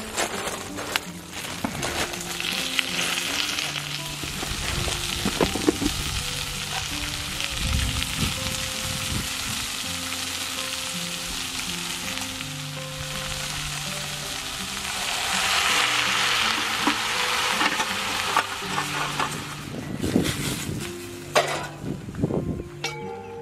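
Food frying in an iron skillet over charcoal: meat chunks and then vegetables sizzling, with scrapes and clinks of the stirring utensil. The sizzle swells louder partway through.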